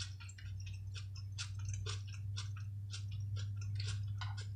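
Close-miked chewing of a mouthful of cabbage and pork, heard as many small, irregular wet mouth clicks and smacks over a steady low hum.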